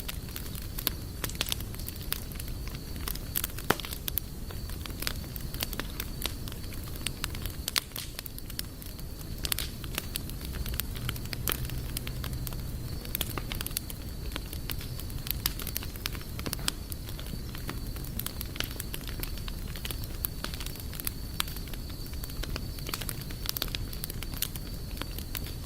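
Wood campfire burning, crackling and popping with many irregular sharp snaps over a low rumble of flame.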